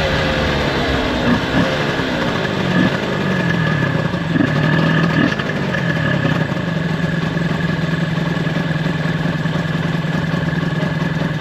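Honda NSR250R's two-stroke V-twin with aftermarket expansion-chamber pipes, its revs falling as the bike slows, a few short throttle blips, then settling into a steady idle about halfway through. The owner says it is running rich on its current 142 main jets.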